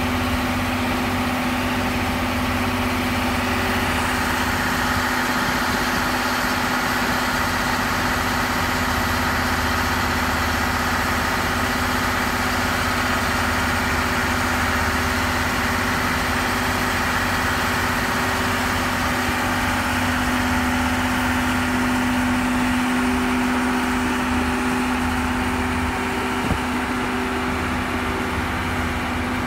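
Steady hum and low rumble of standing trains' on-board machinery running at idle, with two steady tones that barely change.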